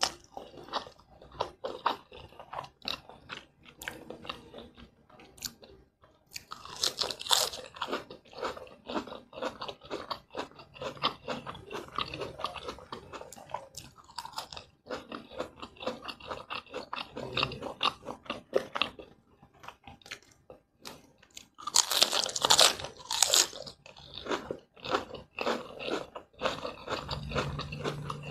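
Close-miked eating: wet chewing of fried instant noodles, with crisp lettuce leaves bitten and crunched in louder bursts about six seconds in and again after twenty seconds.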